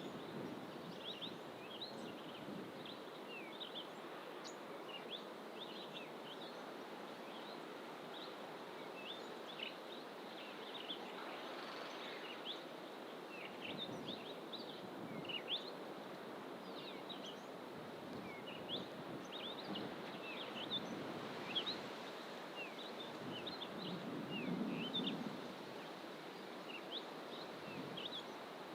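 Several small birds calling in dense bush: many short, high chirps and tweets in quick, irregular succession, over a steady background hiss.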